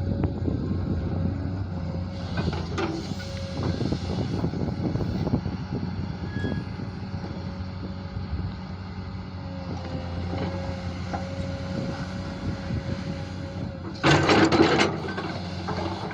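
A JCB digging machine's engine running steadily with a wavering whine, while scattered knocks and scrapes come from the digging. About fourteen seconds in, a loud noisy burst lasts for about a second.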